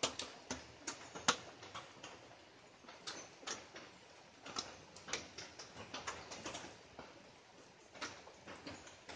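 Light rain: separate drops landing at irregular intervals as sharp little ticks, a few a second, over a faint hiss.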